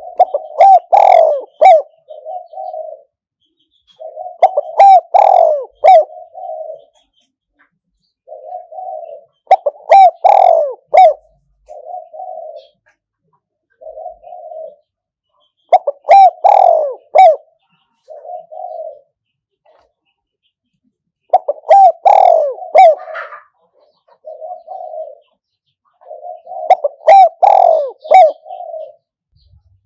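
Spotted dove cooing, a caged decoy bird calling: loud phrases of coos repeating about every five seconds, with short silences between.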